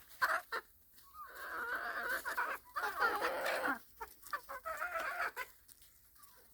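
Several chickens clucking in bouts with short pauses, dying down near the end.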